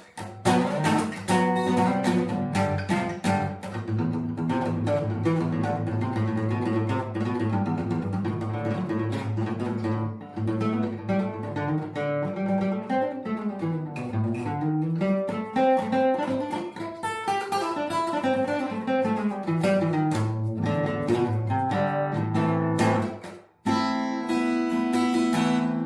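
Acoustic guitar music, plucked and strummed, with a brief sudden break near the end before the playing carries on.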